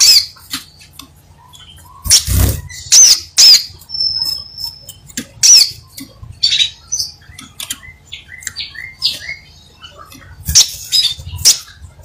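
Crimson sunbird singing vigorously: loud, sharp, high chirps and snappy calls in quick irregular bursts, with one brief level whistle about four seconds in.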